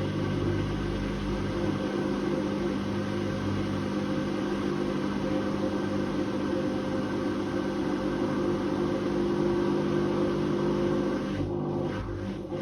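Whirlpool Indiana 1400 front-loading washing machine running, its drum motor giving a steady hum over a hiss of turning drum and water. Shortly before the end the sound changes: the higher hiss falls away and an uneven pulsing sets in as the drum's motion changes.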